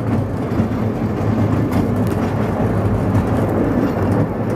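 Small park railway train running steadily along the track, a continuous low rumble heard from on board a carriage.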